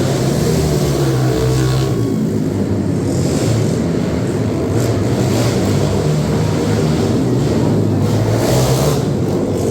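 Racing engines running and revving loudly and continuously, their pitch rising and falling as the vehicles race.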